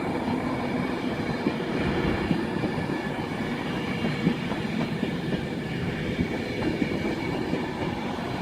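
London Midland Class 350 Desiro electric multiple unit running at the platform: a steady rumble of wheels and running gear with a thin, steady high whine above it.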